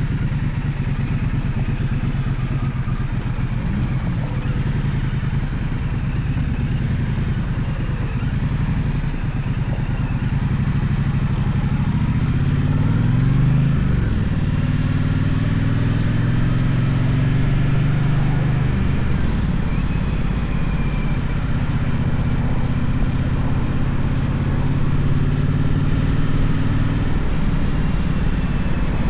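Gaokin GK1200 motorcycle engine running under way, with a steady note; about halfway through the engine note sweeps up and down as the rider shifts and revs.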